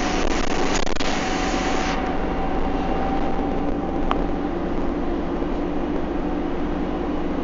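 Bus engine and drivetrain running steadily under way, with a held whine over the low drone. A hiss fills the top end for the first two seconds and then drops away. A brief high squeak comes about four seconds in.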